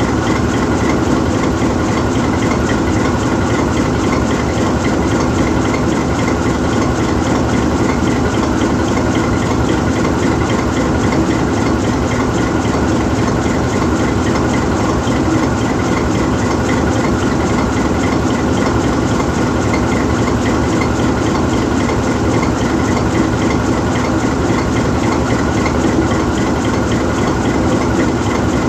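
GE U20C diesel-electric locomotive's V12 FDL-12 diesel engine idling steadily with the locomotive standing still.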